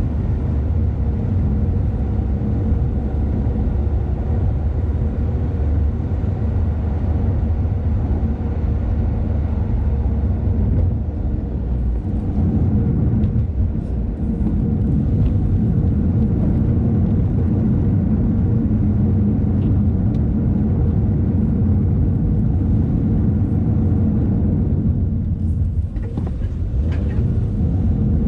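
A car driving along a road: steady low engine and tyre rumble, with a faint steady hum, easing off briefly near the end.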